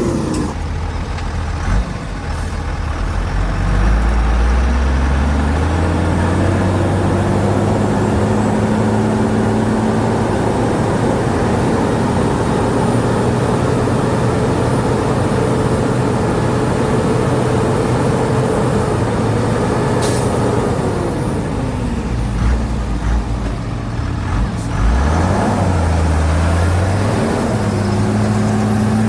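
Heavy diesel earthmoving engine working under load, its pitch rising in the first few seconds, holding steady, then dropping and climbing again near the end. A brief sharp hiss about twenty seconds in.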